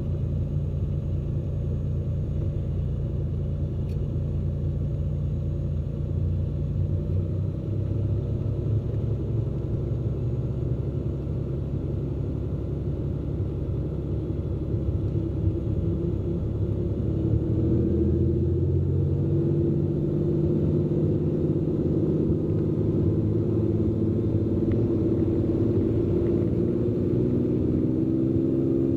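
Cessna P210N's turbocharged six-cylinder engine and propeller drone steadily inside the cabin at takeoff power. About 17 seconds in the drone grows louder and its tones climb.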